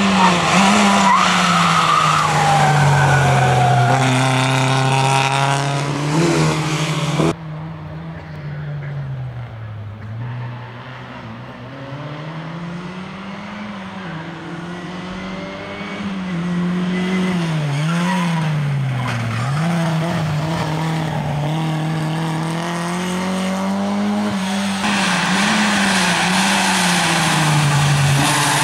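Lada 2107 rally car's four-cylinder engine at racing pace, its pitch repeatedly rising and dropping as it is driven hard through the gears and corners. About seven seconds in, the sound turns suddenly quieter and duller, then gradually builds and is loud again near the end.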